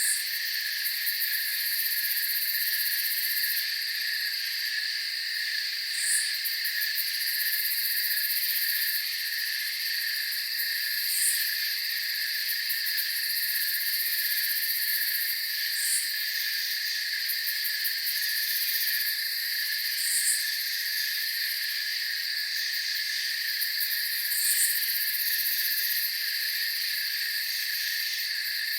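Night insect chorus of crickets: a steady, even high-pitched trilling, with a short, higher chirp about every five seconds.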